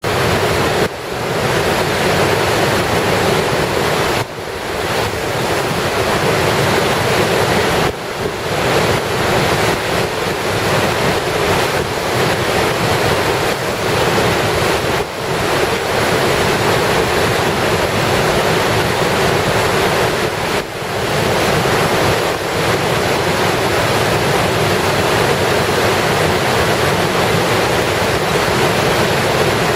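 Floodwater rushing over a river weir after a typhoon: a loud, steady rush of muddy, swollen river water that dips briefly a few times.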